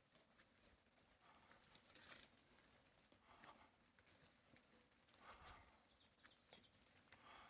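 Near silence: faint outdoor ambience with a few scattered soft rustles and clicks.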